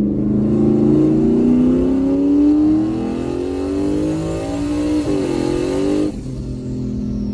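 Single-turbo Ford Mustang's engine under acceleration, heard from inside the cabin, its pitch climbing steadily. About six seconds in the sound drops suddenly to a steadier, quieter run as the throttle eases, with a thin high whistle falling away.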